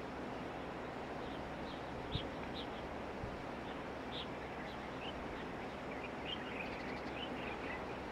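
Small birds chirping in short, scattered calls that come thicker near the end, over a steady outdoor background rumble. A single brief low thump sounds about two seconds in.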